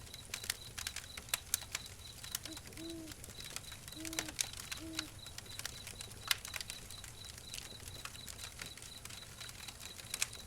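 Outdoor ambience: three short, low, arched calls about two to five seconds in, over a steady rapid high pulsing chirp, a low rumble and scattered sharp clicks.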